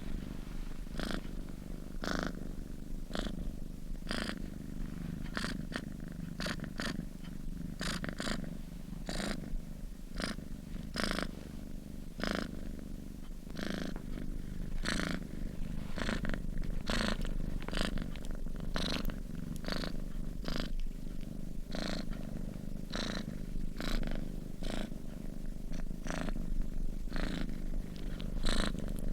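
Sleeping domestic cat purring steadily, a continuous low rumble, with short sharp sounds about one or two times a second.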